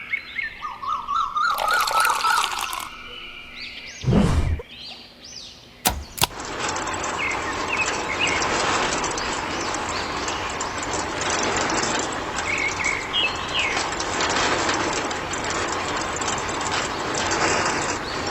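Short bird-like chirps and a few sudden knocks and swishes, then after a click, a steady rushing noise with occasional faint bird chirps.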